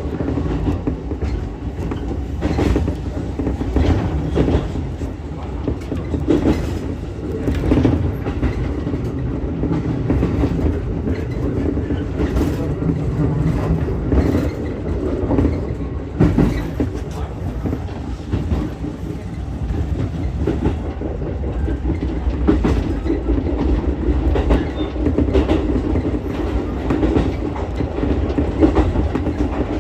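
Ichibata Electric Railway 7000 series electric railcar running between stations: a steady rumble of wheels on rail, with irregular clicks and knocks as the wheels pass over rail joints.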